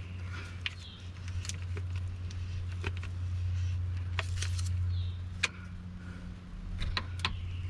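Hand grease gun being pumped into the power steering cylinder's grease fitting, a sharp click about every second or so, over a steady low hum.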